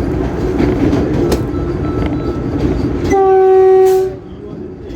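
Running rumble of the Vande Bharat Express electric train set, heard from on board. About three seconds in, a train horn sounds one steady blast of about a second, then cuts off.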